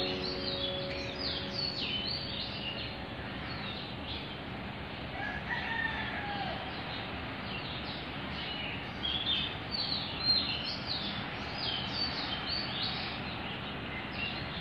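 Small birds chirping in quick repeated notes throughout, with a rooster crowing once about six seconds in.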